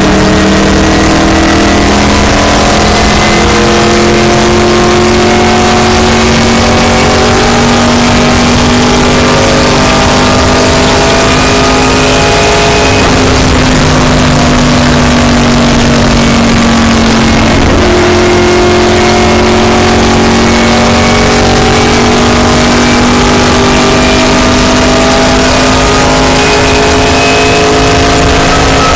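Race car engine running hard at speed, very loud from inside the car. Its note climbs slowly, then drops and climbs again twice, about 13 and 18 seconds in, as the driver eases off and gets back on the throttle.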